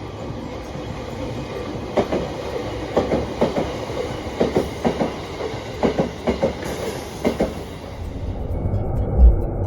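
A train running on jointed track, its wheels clacking over the rail joints in quick pairs over a steady rumble. About eight seconds in the clacking stops and a deeper low rumble takes over.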